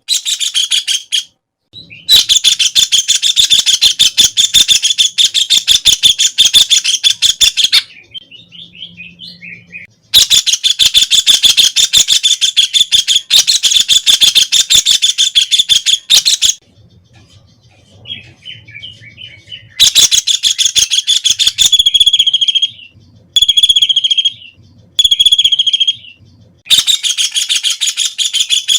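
White-throated kingfisher (Halcyon smyrnensis) calling with its loud, rapid trill in long runs of several seconds, separated by short pauses with fainter notes. Near the end come a few shorter calls of about a second each.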